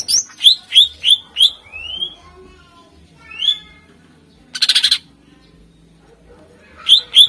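Cucak ijo (greater green leafbird) singing: a quick run of about five sharp, down-slurred whistles, then slurred gliding notes, a short harsh chattering burst about midway, and another run of sharp whistles near the end.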